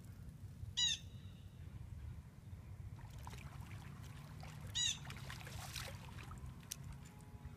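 A bird gives two short, loud calls, about four seconds apart. Between them comes faint splashing as a hooked white bass is worked in at the water's edge, over a steady low background hum.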